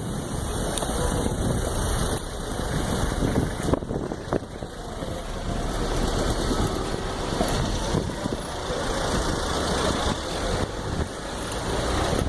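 Road traffic: motor vehicle engines running steadily, with wind rumbling on the microphone.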